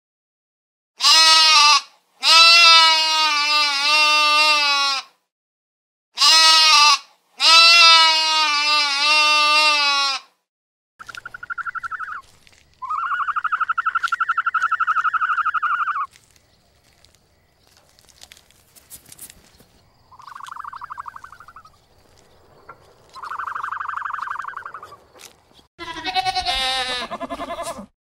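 A series of animal calls: two pairs of long, wavering calls in the first ten seconds, then several shorter, higher-pitched calls. Near the end a goat bleats.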